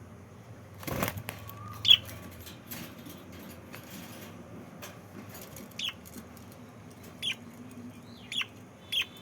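Pet lovebirds: a brief flutter of wings about a second in, then about five short, sharp chirps at irregular intervals.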